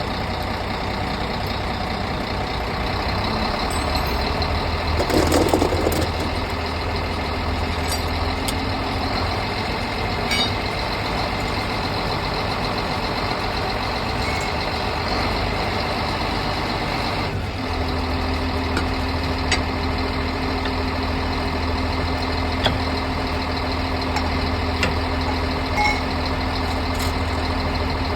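A heavy vehicle engine idling steadily, with a short louder rush of noise about five seconds in and scattered light clicks and knocks.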